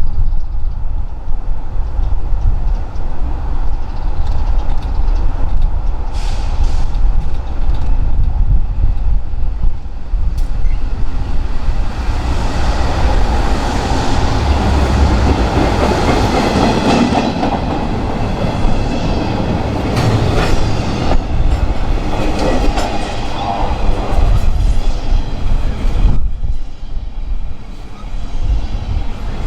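Train rolling past on the rails, wheels clicking over rail joints with a steady rumble, and a thin high squeal from the wheels through the middle stretch.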